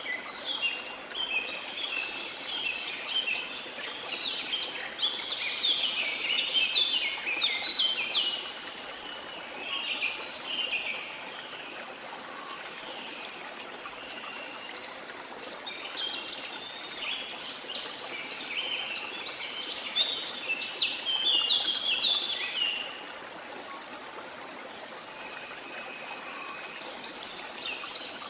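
Birds singing in rapid chattering phrases, in two long bouts and a short one, over the steady rush of flowing water.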